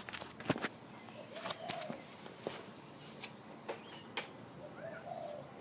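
Faint bird chirps, a high swooping one about three seconds in and a short rising one near the end, over quiet background with a few light clicks.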